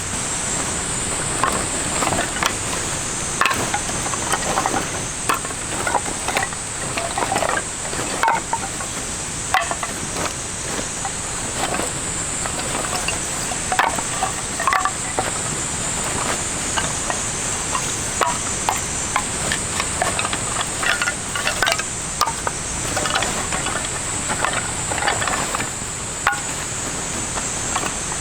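A steady high-pitched drone of summer forest insects, with scattered light clicks and knocks of things being handled.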